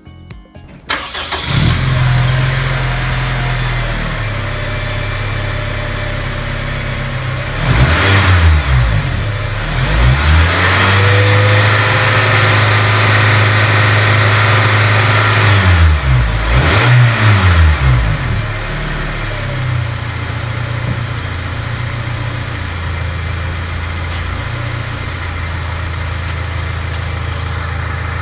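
Honda Integra Type R's four-cylinder engine running: it idles, revs up about a quarter of the way in, holds higher revs for several seconds, revs again, then settles back to a steady idle.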